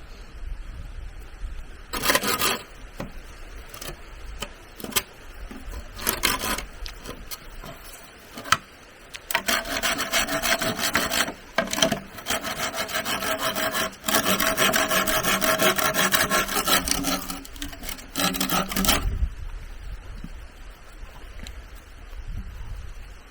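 A hand saw cutting bamboo with quick, rhythmic rasping strokes. It comes in short bouts at first, then in longer runs through the middle, with brief pauses between them.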